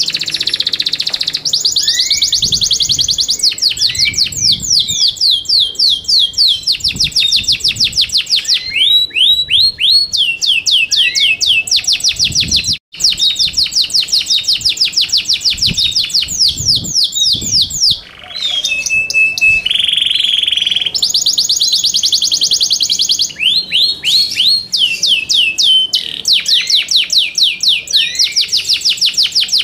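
Yorkshire canary singing: long, fast trills of rapidly repeated sweeping notes, switching from one trill to the next, with a sudden brief break a little under halfway and a few steadier held notes past the middle.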